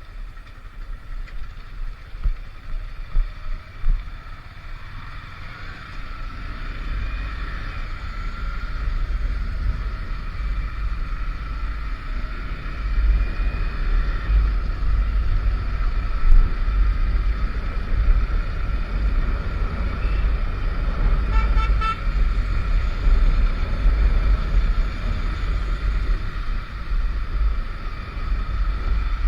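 Motorcycle riding on the road with a heavy wind rumble on the microphone. About 21 seconds in, a vehicle horn sounds in a quick run of short beeps.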